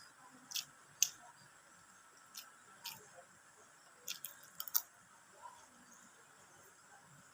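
Close-miked eating sounds: short, wet mouth smacks and chewing clicks, scattered singly, with a quick cluster about four seconds in.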